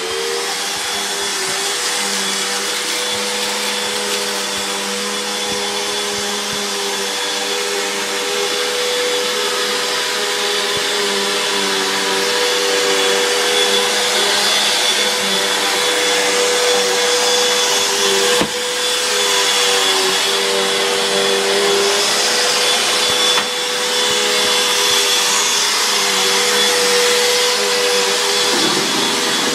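Vacuum cleaner running steadily at full speed, a steady whine over its rushing air, with a single sharp knock about 18 seconds in.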